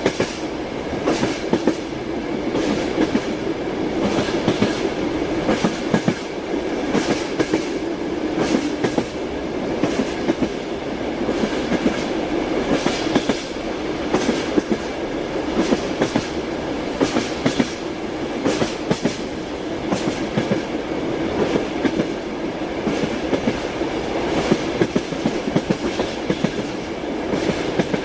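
Passenger train running along the track: a steady rolling rumble with the wheels clacking over rail joints, the knocks coming irregularly, several a second.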